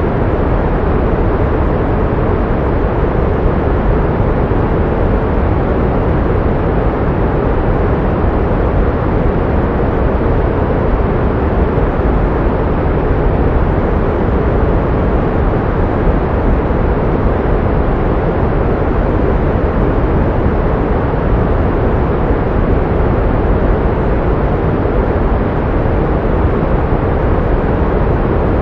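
Steady pink noise: an even, unchanging hiss weighted toward the low end, used as sound therapy to mask tinnitus.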